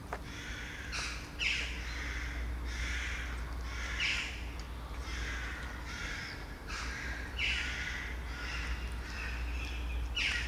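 A bird giving rasping calls over and over, about one a second, some opening with a quick downward sweep, over a steady low background rumble.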